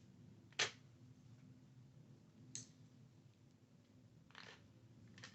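A few short, separate clicks of makeup brushes being handled and put into a holder, the loudest about half a second in and fainter ones later, with quiet between them.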